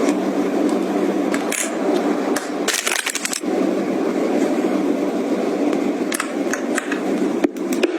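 Objects being handled close up: continuous rustling and scraping with scattered clicks and taps, and a denser cluster of clicks about three seconds in.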